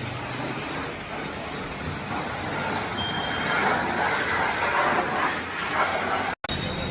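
Car wash pressure washer running, its water jet giving a steady rushing hiss; the sound cuts out for a split second near the end.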